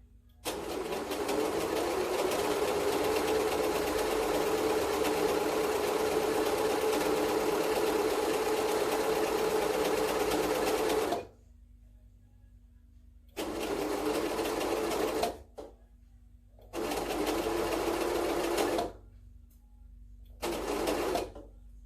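Electric sewing machine stitching: one long steady run of about ten seconds, then three short bursts of about two seconds each with pauses between, as straps are sewn onto a cloth face mask.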